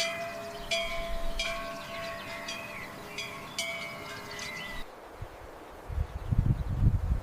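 Chimes ringing, struck again and again with sustained metallic tones. They cut off abruptly about five seconds in, and low rumbling bursts follow.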